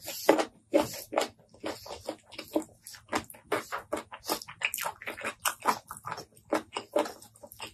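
Close-miked mouth sounds of eating rice by hand: wet chewing and lip smacks coming as quick, irregular clicks several times a second, with fingers squishing through the rice.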